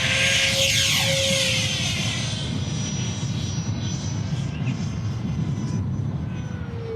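Electric ducted-fan RC jet running at high throttle: a steady fan whine with a loud rushing hiss that fades over the first few seconds as the plane moves away. Low wind rumble on the microphone underneath.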